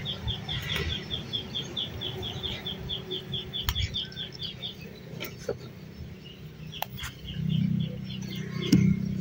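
A bird calling in a fast run of short high chirps, about six a second, that breaks off about halfway and starts again near the end. A few sharp clicks and a steady low hum lie underneath.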